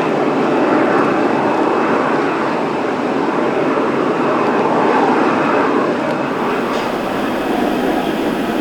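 Jet airliner's engines on landing approach as a steady rush of noise, mixed with strong wind buffeting the microphone.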